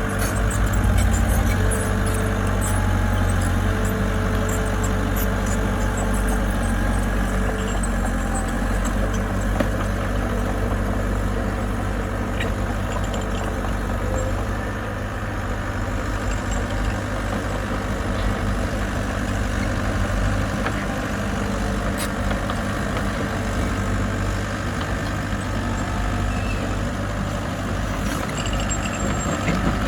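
Heavy-equipment diesel engine running steadily, with a few faint clicks over it.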